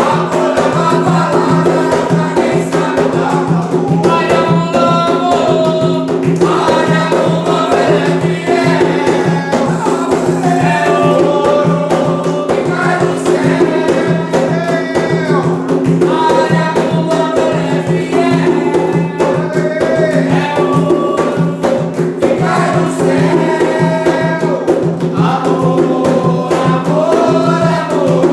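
Umbanda ponto (devotional chant) for the pombagira Maria Mulambo sung over steady percussion.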